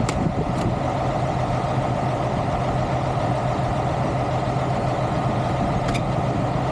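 Heavy truck engine idling steadily, with three sharp clicks: two right at the start and one near the end.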